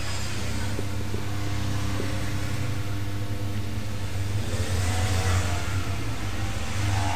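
A machine running with a steady low hum, its hiss swelling for a moment about five seconds in.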